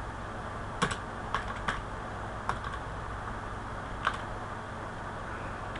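Computer keyboard keystrokes: a handful of separate taps at irregular intervals, over a faint steady low hum.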